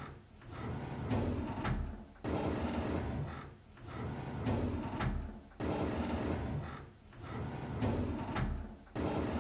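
A drawer sliding on its runners, repeated over and over: each pass starts suddenly with a knock, rumbles along and fades, about every three and a half seconds.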